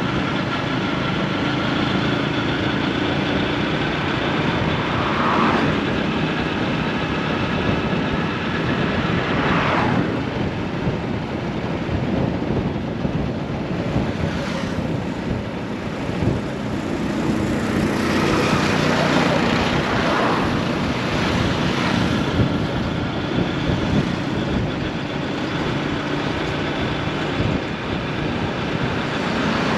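Busy road traffic: vehicle engines running steadily, with several vehicles passing close by and swelling louder for a moment, and some wind on the microphone.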